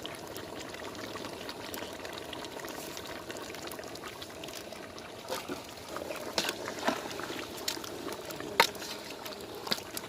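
Chicken pieces cooking in a pot of spiced oil and masala, a steady bubbling sizzle. A few short sharp clicks, likely a utensil against the pot, sound in the second half, the loudest about 8.5 seconds in.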